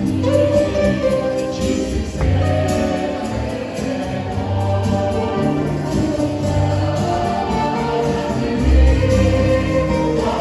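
Choir singing a song with instrumental accompaniment and a steady bass beat.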